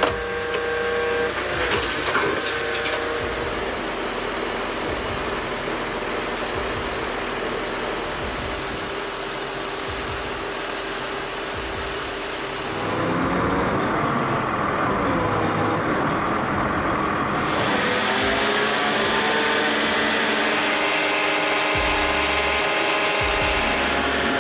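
Heavy vehicle engines running steadily. About halfway through the sound changes, with a brief rise and fall in pitch.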